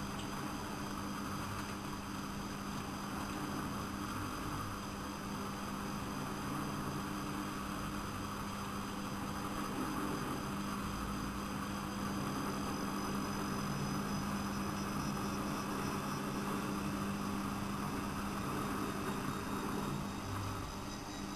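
Siemens Siwamat 6143 washing machine running, with a steady motor hum and a noise of the turning drum that grows slightly louder about halfway through.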